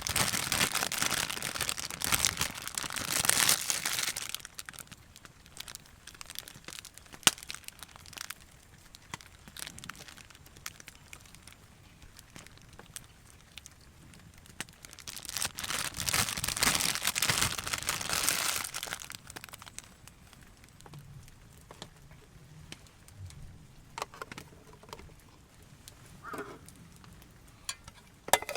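Crinkling and rustling, as of plastic or fabric being handled, in two long bouts of a few seconds each, with scattered small clicks and knocks between them.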